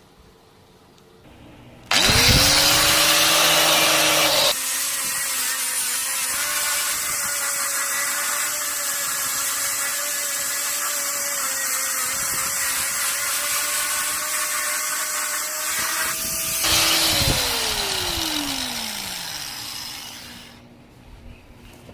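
Handheld electric power tool starting about two seconds in, running at speed with a steady whine and a hissing scrub as it works over an engine part's metal surface, then switched off and winding down over about three seconds near the end.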